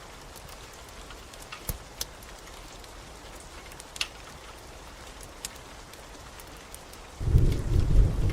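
Steady rain with a few sharp crackling pops from a fireplace. Near the end a loud low rumble of thunder rolls in.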